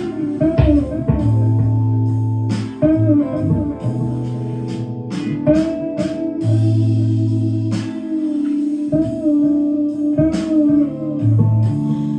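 Electric guitar with a clean tone improvising a lead line in A minor, plucked notes with string bends, over low held bass notes that change every second or two.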